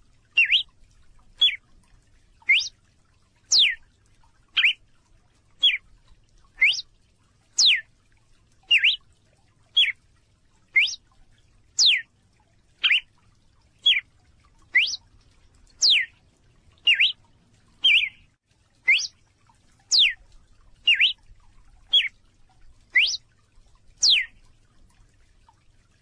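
Red-cowled cardinal calling: a short, sharp note repeated evenly about once a second, some notes sweeping up in pitch and others sweeping down, stopping shortly before the end.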